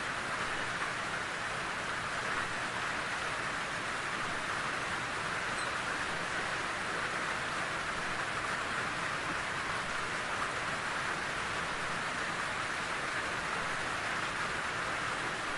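Steady rain falling in a forest, an even hiss of drops without pauses or distinct impacts.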